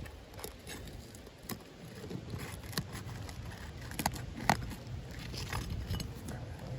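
Asphalt roofing shingles being pried up, their sealed tabs breaking loose: scattered scrapes, clicks and crackles, with a few sharper clicks around four to four and a half seconds in.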